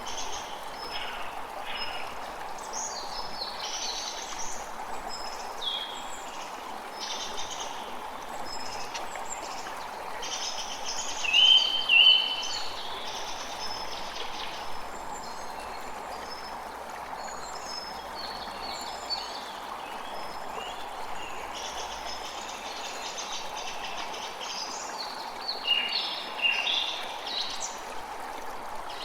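A creek running steadily, with songbirds chirping and calling over it. Louder bursts of calls come about a third of the way in and again near the end.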